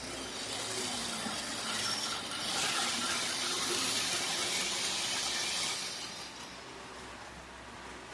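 A Tyco model train, a diesel locomotive's small electric motor and the cars' wheels clattering on the track, running past: it grows louder for a few seconds in the middle, then fades as the train moves away.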